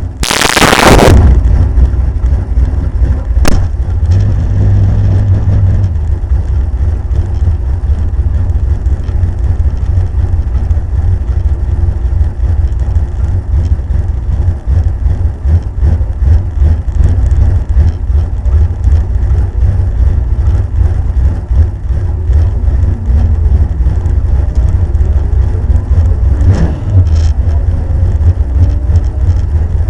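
Pontiac Firebird drag car's engine idling roughly with a heavy, uneven low rumble, heard from onboard. A loud burst of noise in the first second, and sharp clicks about three and a half seconds in and near the end.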